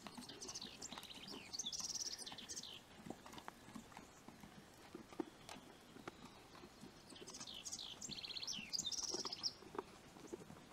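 A small songbird sings two phrases of about two seconds each, about a second in and again near the end. Between them come faint clicks and shuffles from a young foal's hooves and muzzle working at a pile of hay on hard dirt.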